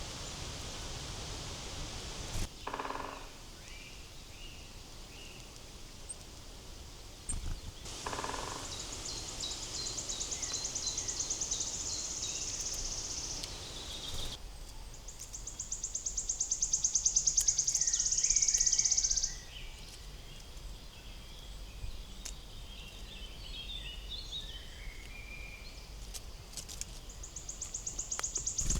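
Forest ambience: a high, fast buzzing trill comes three times, each about four to five seconds long and growing louder, with soft scattered bird chirps between. Two short dull sounds come near the start.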